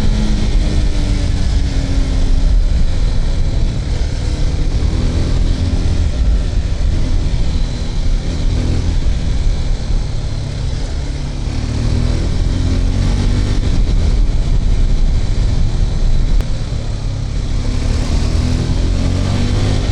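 KTM RC 390's single-cylinder engine running at road speed, its pitch rising and falling several times as the throttle is opened and closed, over a constant rush of wind and road noise.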